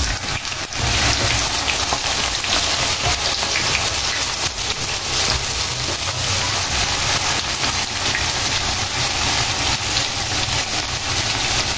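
Cubes of tofu deep-frying in hot oil in a pan: a loud, steady sizzle that swells about a second in as the already-fried tofu goes back into the oil for a second fry to crisp it.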